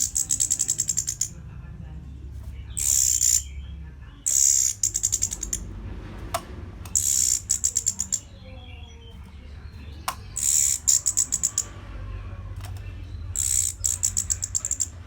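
Orange-headed thrush singing short, high-pitched phrases, each a harsh burst running straight into a rapid stuttering series of short notes, about six phrases a few seconds apart, over a steady low hum.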